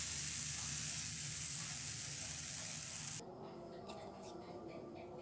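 Pancake batter sizzling loudly as it is ladled onto a hot non-stick frying pan, an even high hiss that cuts off abruptly about three seconds in. A fainter sound with quick repeated high chirps follows.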